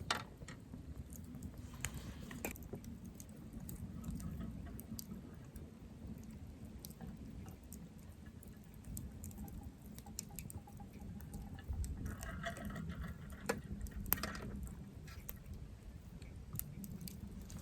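Wood campfire crackling, with scattered sharp pops and snaps over a low, steady rumble.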